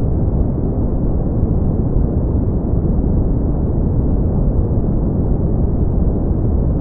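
Steady brown noise: an even, deep rumbling hiss with most of its energy in the low end and nothing in the highs, unchanging throughout.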